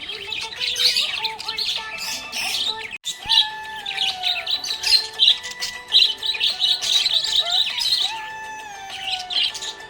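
Budgerigar chirping and warbling in a rapid, continuous stream of high chirps, with a brief break about three seconds in.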